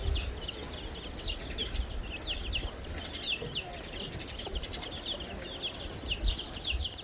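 Many small birds chirping continuously, with several voices overlapping in quick, short, high chirps that each fall in pitch, over a low rumble.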